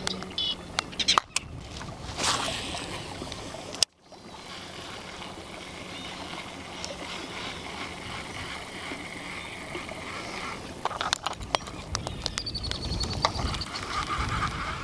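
Water and wind noise around a small boat easing through a shallow bayou, with a few sharp knocks in the first two seconds and again about eleven seconds in. The sound drops out briefly near four seconds in.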